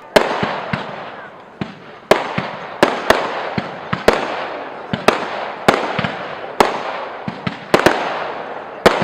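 Fireworks display: a run of loud bangs from bursting aerial shells, about a dozen, coming roughly once a second and sometimes in quick pairs, each trailing off into a fading echo.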